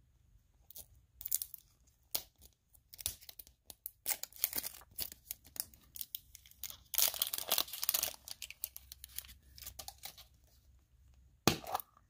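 Hands tearing open a surprise toy package, with irregular crackles and rips of the wrapping and a longer, louder tear a little past the middle.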